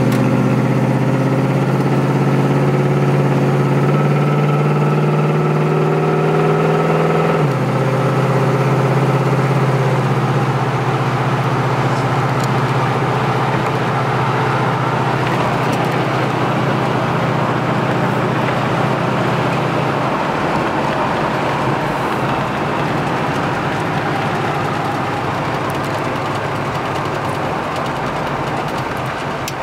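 1969 Pontiac Firebird's engine heard from inside the cabin, pulling with its pitch slowly rising, then dropping suddenly about seven seconds in as the transmission shifts up. It then runs on steadily under a rushing noise that grows over the second half.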